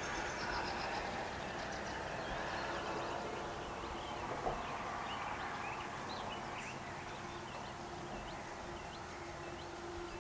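Small birds chirping in many short, quick notes, thickest in the second half, over a steady background hiss. A faint steady low hum comes in about halfway through.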